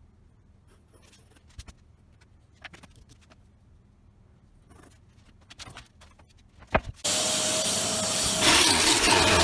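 A few scattered knocks and clicks of handling, then about seven seconds in a power tool starts abruptly and runs loudly with a rushing noise. Its sound changes about a second and a half later.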